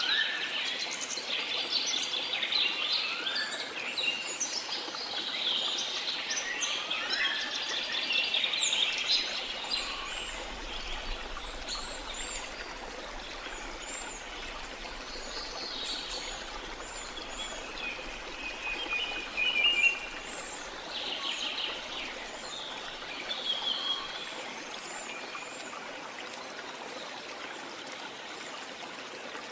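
Many birds chirping and calling over a steady hiss of running water. The bird chorus is dense for about the first ten seconds, then thins to scattered chirps and trills toward the end.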